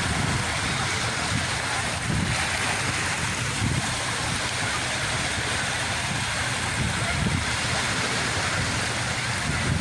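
Sea surf: waves breaking and washing ashore as a continuous rush, with irregular low gusts of wind against the microphone.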